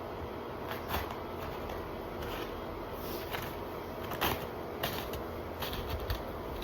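Footsteps crunching through ice-crusted snow, an irregular series of short crunches about every half second to a second.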